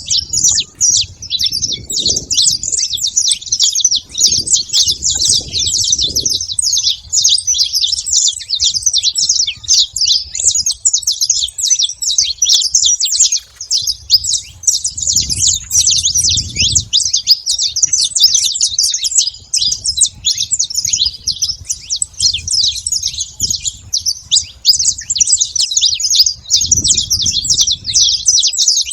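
Saffron finch singing: rapid, high chirping notes run on without a break. A low rumble comes and goes underneath.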